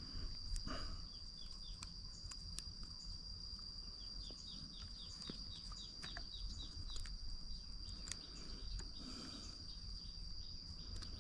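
A steady high-pitched insect drone, with a bird calling a quick run of short falling notes from about four seconds in for a few seconds. Scattered small clicks and taps of hands and tools working on the brush cutter's carburettor.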